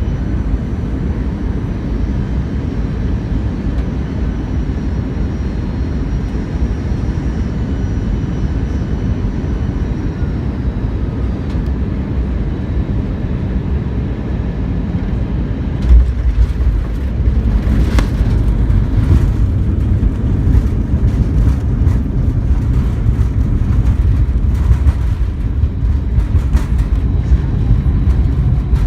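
Airbus A320 jet noise: a loud, steady rumble with a faint high whine that fades out about ten seconds in. About sixteen seconds in, the rumble turns louder and rougher, with crackling over it.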